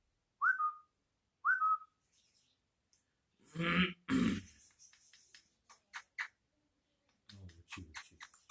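Two short whistled notes, each sliding up then held, about a second apart. Then two loud, harsh voice-like bursts about four seconds in, followed by a scatter of short clicks and chirps.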